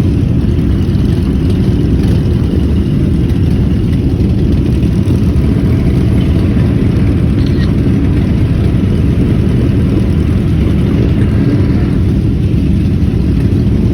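Motorcycle engine running steadily, a dense low rumble with no breaks.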